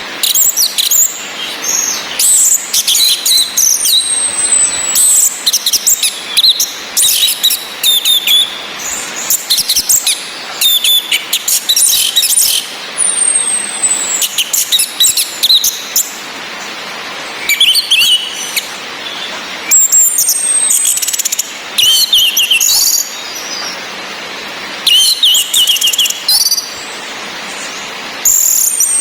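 Orange-headed thrush calling in repeated bursts of sharp high chirps and short falling whistles, with pauses of a second or two between bursts. A steady hiss of rain runs underneath.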